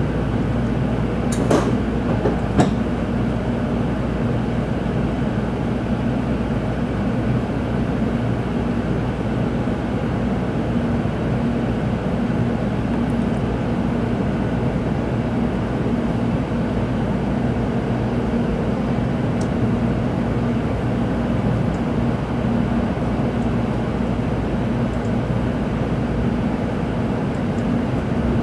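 Steady running noise of a Shinkansen train heard inside the passenger car, with a low hum, and two short clicks about a second and a half in.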